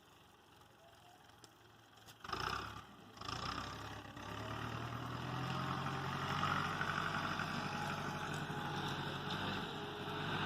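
A steady engine hum, like a motor vehicle running, that sets in after a short loud burst about two seconds in and carries on evenly.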